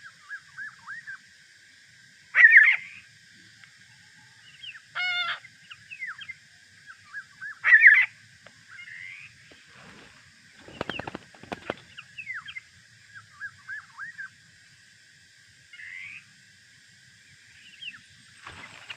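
Birds calling: many short falling whistles, with two louder harsh calls about two and a half and eight seconds in. A brief rustle around the middle.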